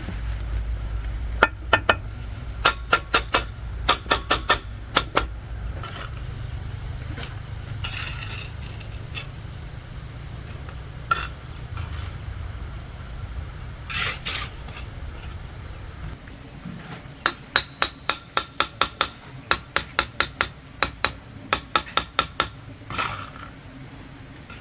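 Hammering: two runs of quick, regular blows, about two to three a second, one near the start and one in the last third. A steady high-pitched insect drone runs underneath.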